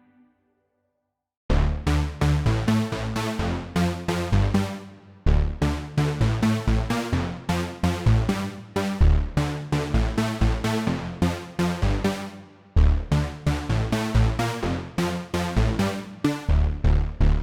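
Omnisphere software synthesizer preset playing a fast electronic pattern of short, sharply struck notes over a heavy bass, starting after a moment of silence about a second and a half in; the phrase starts over twice.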